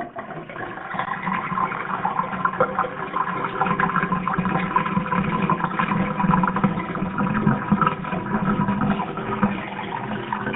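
Toilet flushing: a steady rush of water that begins to ease off near the end.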